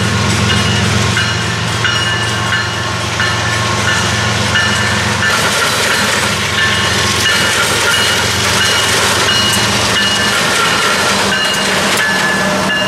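Union Pacific freight train with several GE diesel locomotives approaching and passing: engines running steadily, with wheel and rail noise swelling about five seconds in as the locomotives come close. Short high ringing tones repeat throughout.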